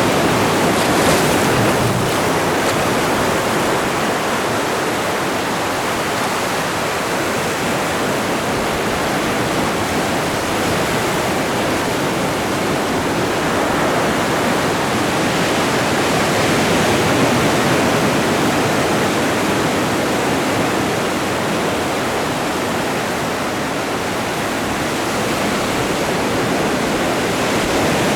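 Atlantic Ocean waves breaking and washing on a rocky shore, a continuous rushing surf that swells and eases slowly.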